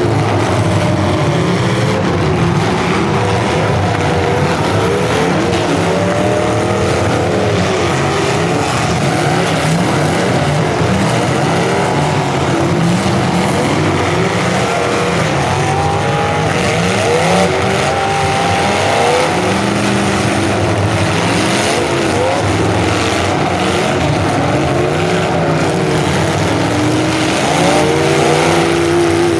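Several full-size demolition derby cars' engines running and revving at once, their pitches rising and falling over one another.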